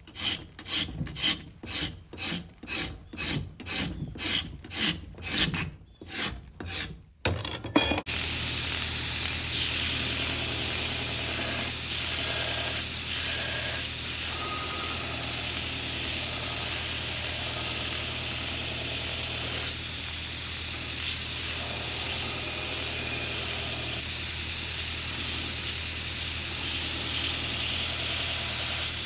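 Hand rasp or file dragged in quick, even strokes, about two and a half a second, shaving down a wooden knife handle. About eight seconds in it gives way abruptly to a steady machine noise with a low hum.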